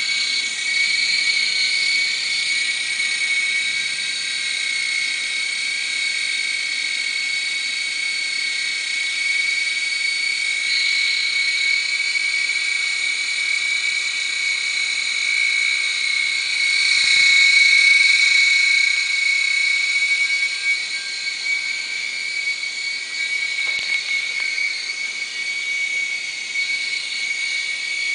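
Micro RC helicopter's small electric motors running with a steady high-pitched whine, swelling louder briefly about seventeen seconds in. The owner suspects one of the motors is failing, as the helicopter no longer lifts.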